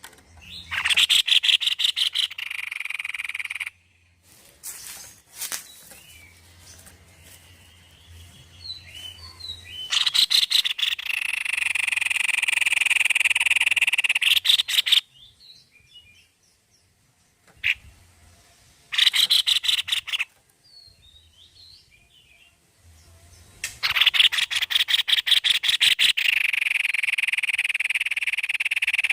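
White-necked babbler singing: four bouts of a fast, rattling trill, each a few seconds long, separated by short pauses with faint chirps.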